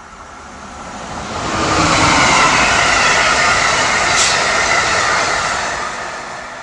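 Amtrak passenger train passing at speed: a loud rush of wheels and air that swells over about a second, holds, and fades near the end. A brief sharp high click comes about four seconds in.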